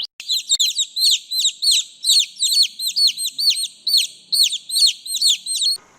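A small bird chirping rapidly: high, sharply falling chirps repeated about three times a second, stopping just before the end.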